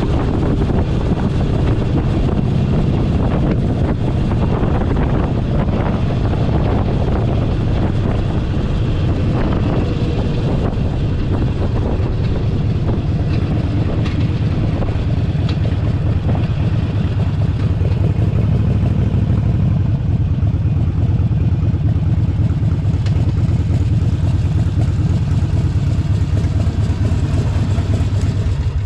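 Harley-Davidson Forty-Eight Sportster 1200's air-cooled V-twin engine running steadily while riding at speed, with wind noise on the microphone.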